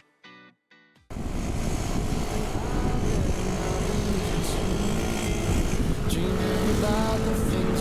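A motorcycle under way: engine running with dense road and wind noise. It cuts in suddenly about a second in, after a moment of near silence.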